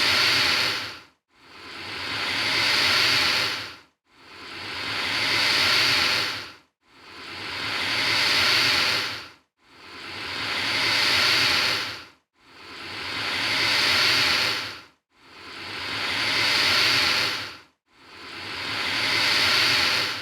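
Alligator hissing over and over at an even pace: each breathy hiss swells over about two and a half seconds, then cuts off sharply before a brief silent gap and the next one, about seven times.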